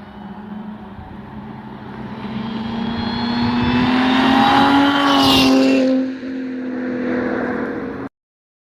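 2012 Audi S4's supercharged 3.0-litre V6 through a modified exhaust (Armytrix system refitted with Vibrant resonators and an X-pipe) accelerating, its note rising to a peak about five seconds in. The level drops suddenly a second later and holds steady, then the sound cuts off abruptly near the end.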